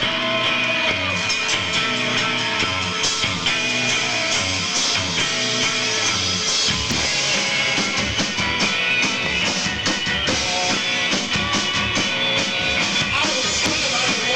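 Live rock band playing the instrumental opening of a song, with electric guitar and drum kit.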